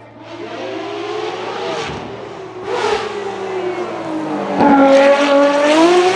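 Ferrari FXX-K EVO's V12 engine revving. Its pitch climbs, dips about two seconds in, and falls off between about three and four and a half seconds in. It then gets much louder as the car passes close, and the pitch climbs again near the end.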